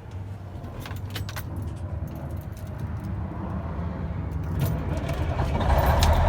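Ignition keys jangle and click, then a Cummins N14 diesel truck engine is started from cold after standing for weeks. The engine sound builds steadily and settles into a loud, steady run near the end.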